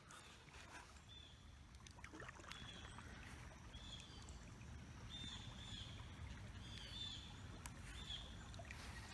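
Faint low rumble of river water and air around a drifting kayak, with a bird giving a series of short high chirps, some in quick pairs, from a few seconds in until near the end.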